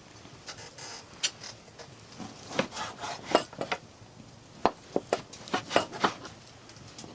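A run of irregular scrapes, rubs and knocks of things being handled, busiest in the middle.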